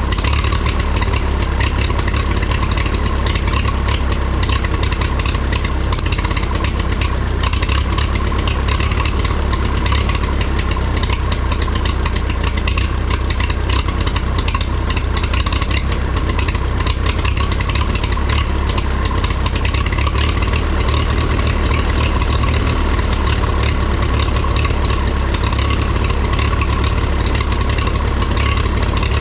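1954 Minneapolis Moline UBU tractor's four-cylinder spark-ignition engine running steadily at an even, unchanging speed just after a tune-up with new plugs, points, condenser, and a cleaned carburetor.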